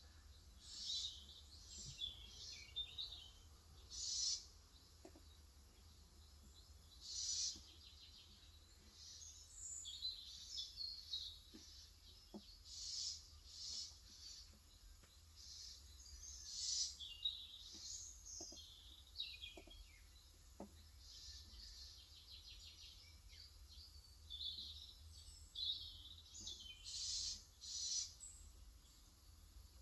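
Small birds chirping and calling in short high bursts every second or two, some as quick trills. There are a few faint, scattered taps that fit keystrokes on an electrostatic capacitive keyboard.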